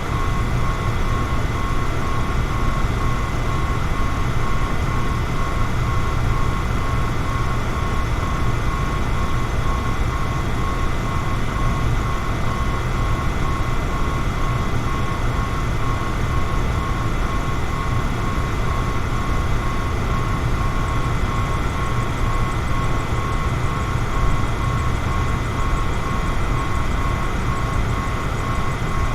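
Electric fan running steadily: a constant whooshing drone, strongest in the low end, with a faint steady motor whine on top.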